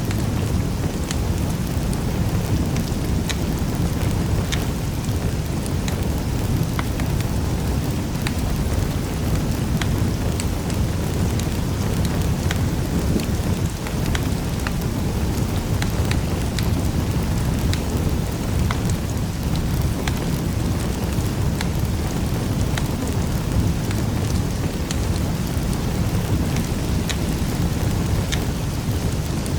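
Wood fire burning in a fireplace: a steady low roar of flames with scattered sharp crackles and pops.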